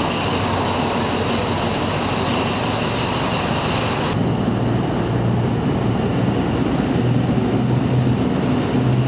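Train running with steady rumble and rattle. About four seconds in the sound changes abruptly, and a steady low hum and a faint high whine come in, the whine slowly rising in pitch.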